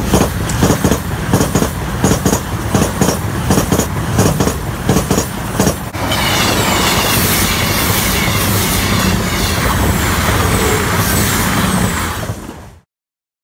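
CrossCountry Voyager diesel multiple unit passing over a level crossing at speed. For the first six seconds there is an approaching rumble with irregular crackling knocks. Then, as the train reaches the crossing, a loud, steady rush of engine and wheel noise sets in, and it cuts off suddenly near the end.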